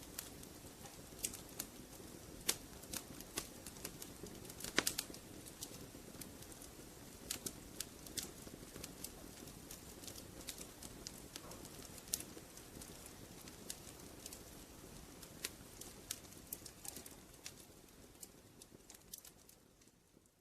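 Wood fire crackling: irregular sharp pops and snaps over a low steady hiss, fading away near the end.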